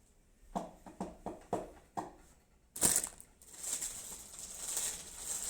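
A handful of light clicks and knocks as PC parts are handled, then a sudden rustling, crinkling noise about three seconds in that carries on unevenly.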